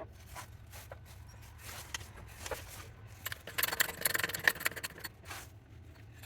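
Light scraping and clicking of metal parts being handled, busiest about halfway through, as an oil seal is worked out of a lathe headstock bearing housing.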